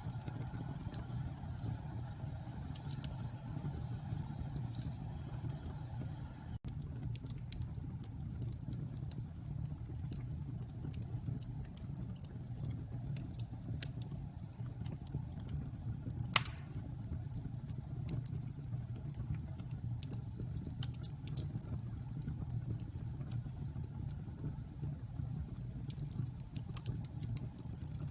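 Wood bonfire burning with a steady low rumble and scattered small crackles, and one louder pop a little past the middle.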